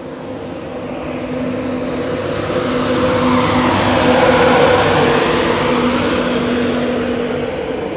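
Electric passenger train pulling into the platform. Its rumble and steady hum build to a peak about halfway through, then ease off a little.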